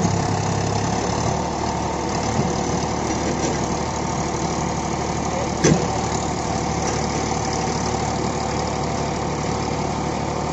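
Heavy diesel engine running steadily at an even speed, with one sharp knock a little past halfway.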